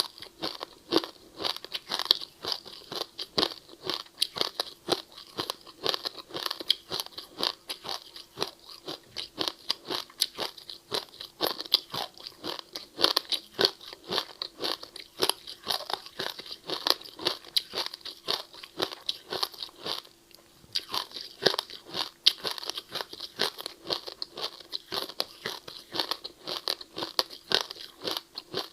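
Someone chewing and crunching ice with the mouth close to the microphone: a rapid, continuous run of crisp crunches, with a short pause about two-thirds of the way through.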